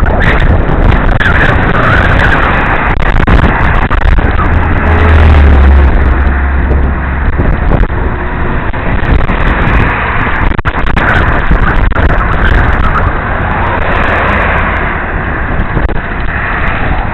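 Wind buffeting a helmet-mounted camera's microphone while cycling, a loud constant rush, with a deeper rumbling surge about five to seven seconds in.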